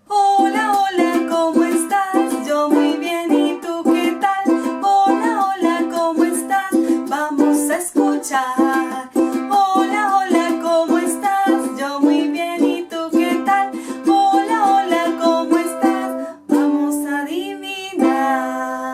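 A song: a voice sings a melody over quick, regular strumming on a bright plucked string instrument. There is a short break about three-quarters of the way through, and it ends on a held chord.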